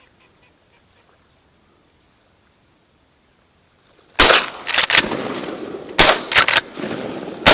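Quiet for about four seconds, then a volley of shotgun shots fired at a flock of passing teal: several loud, sharp shots in quick succession over about three seconds, with a rushing noise between them.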